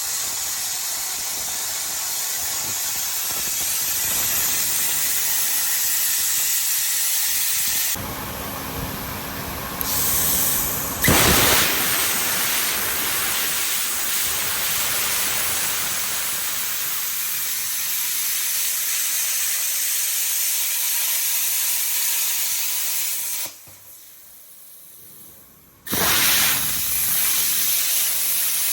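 Plasma cutter hissing steadily as it cuts steel plate, its arc cutting out twice for a couple of seconds before it starts again.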